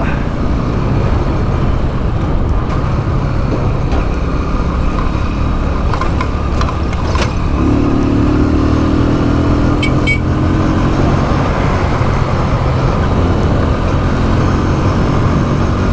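Motorbike engine running steadily under way, with wind noise over the microphone, on a rough, broken road. A few short knocks and rattles come midway.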